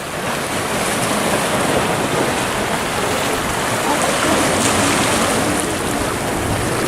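Gulf of Mexico surf washing steadily against the rocks of a jetty, a continuous rushing hiss that swells and eases slightly.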